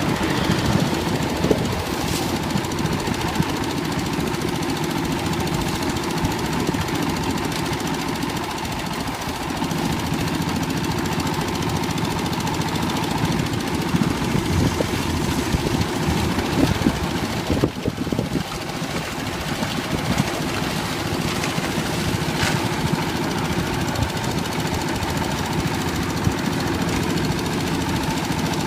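Old diesel engine of a concrete mixer running steadily with a rapid knocking beat, with a couple of brief sharp clicks over it.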